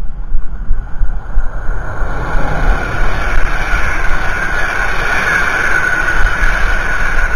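A train passing on the railway line beside the path: a steady rushing noise that builds from about two seconds in and stays loud, over the horse's hoofbeats at the start.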